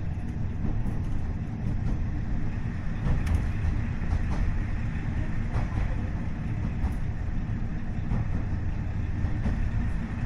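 Steady low rumble of a KiHa 40 diesel railcar running along the line, heard inside the car: its DMF15HSA six-cylinder diesel engine and the wheels on the rails. A few short clicks of the wheels passing over rail joints are scattered through it.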